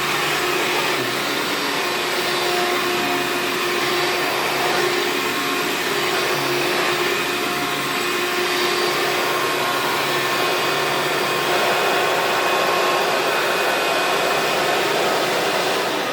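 Hoover Preferred upright vacuum cleaner running steadily, a dense motor rush with a constant whine, as it picks up loose tobacco. The owner hears some noise from the brush roll in it.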